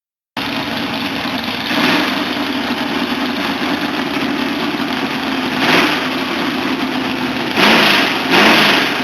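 Electric grinder running steadily, with four short louder bursts of grinding. During the last two the motor's hum drags down in pitch, as it does when a stainless bolt is pressed against the 50-grit wheel.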